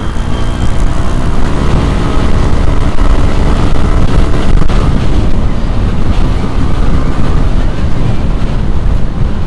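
Yamaha Aerox scooter's single-cylinder engine running through a ROB1 aftermarket exhaust while riding, its note climbing as it accelerates over the first few seconds, with wind buffeting the microphone.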